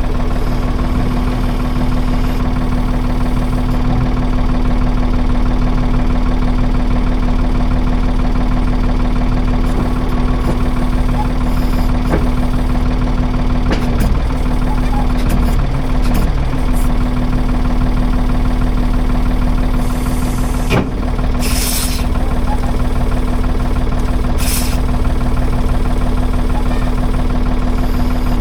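A 1978 Ford 555 backhoe's diesel engine running steadily, with its pitch dipping briefly twice in the middle as it takes load. Two short hisses come in the latter half.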